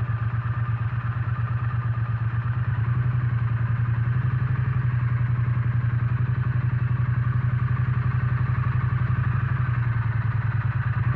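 Triumph Bonneville T100's parallel-twin engine running at steady low revs through its pea-shooter exhausts, an even pulsing beat that neither rises nor falls.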